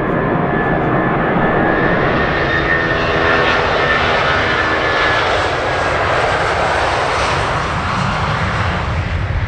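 Jet airliner passing close by under engine power: a loud, steady jet noise with a high fan whine, the pitch of its tones falling as it goes past, and the noise starting to fade near the end.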